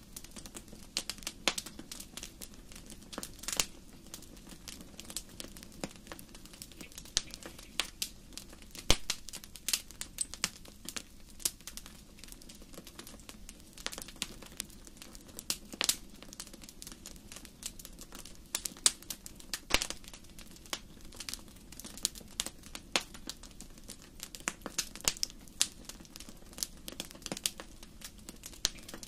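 Wood fire crackling in a fireplace: irregular sharp pops and snaps, some louder than others, over a low steady rush of the flames.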